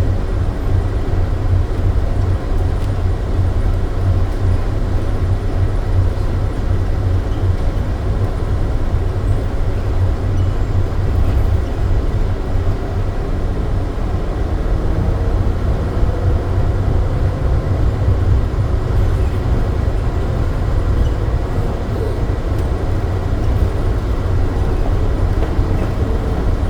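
SFO AirTrain automated people-mover train running along its guideway: a steady low rumble with a strong hum underneath.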